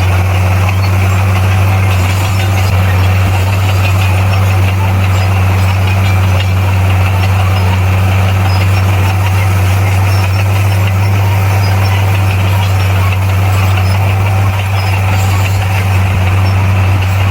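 Diesel engine of a bulldozer running steadily with a deep, even drone and no change in revs.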